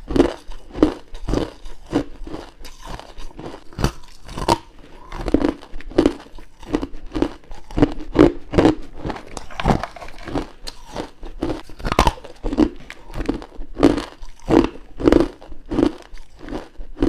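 A person biting into hard, grainy frozen ice close to the microphone: a run of crisp crunches, roughly one to two bites a second.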